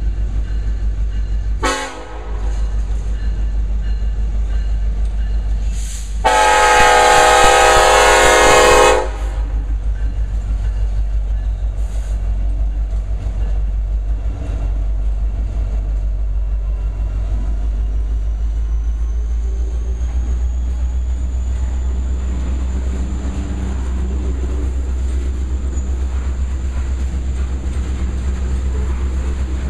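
BNSF SD70ACe diesel locomotives, with EMD 16-cylinder two-stroke engines, passing close by. The horn gives a short toot about two seconds in, then a long blast of nearly three seconds. After that comes the steady deep engine rumble, then loaded coal hopper cars rolling past on the rails.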